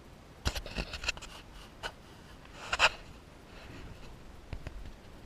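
Short rustling and scraping handling noises with a few sharp clicks, a cluster about half a second in and a louder scrape near the middle.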